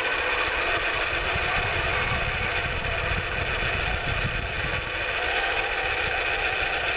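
Steady mechanical whirring of a radio-controlled model truck running, with an uneven low rumble underneath.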